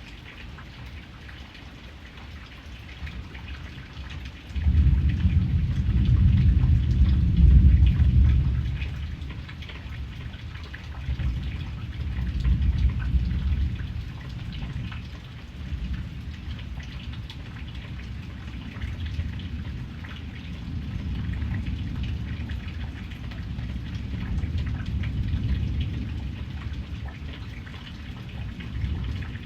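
Steady rain falling, with thunder: a low rumble breaks in suddenly about four and a half seconds in and stays loud for several seconds, then rolls on in weaker swells that fade in and out.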